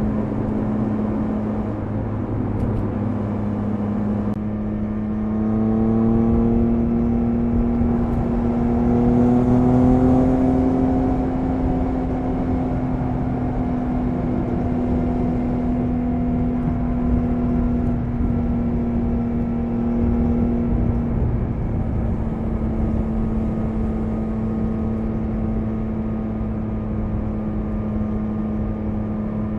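Triumph Speed Triple 1050 RS three-cylinder engine running at a steady cruise over wind and road noise. About five seconds in, the engine note rises as the bike accelerates; it holds higher for about ten seconds, then eases back to the earlier steady note.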